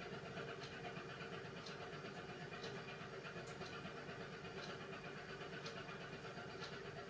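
Beko WMY81283LMB2 washing machine running its hand-wash cycle: a faint steady hum with a light tick roughly once a second.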